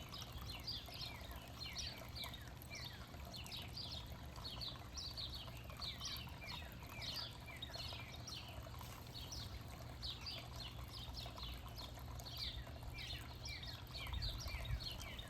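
Backyard songbirds chirping busily, many short downward chirps overlapping without pause, over a steady low rumble.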